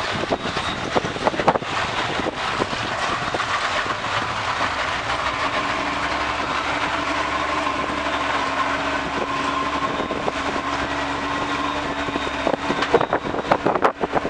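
Boat engine running steadily, with wind buffeting the microphone near the start and the end.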